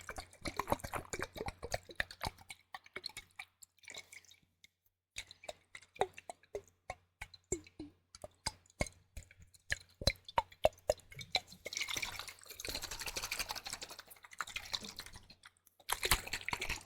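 Close-miked liquid ASMR sounds: rapid wet clicks, drips and small plops, then a longer wet hissing swish near the end and a short final burst.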